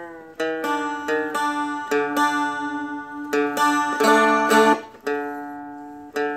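Seagull Merlin's strings strummed about eight times and left to ring, the same few notes checked over and over while the instrument is retuned back to its normal tuning.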